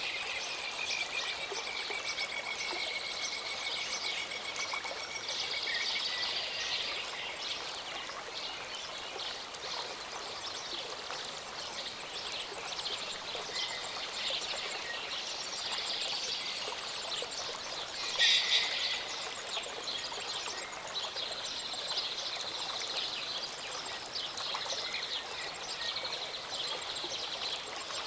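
Small mountain stream running steadily under songbirds singing: many high chirping phrases, one long held whistled note near the start, and a louder call about two-thirds of the way through.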